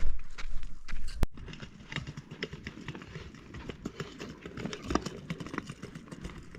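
Irregular clatter of many light knocks and taps, with a low rumble during the first second that stops abruptly at a cut a little over a second in.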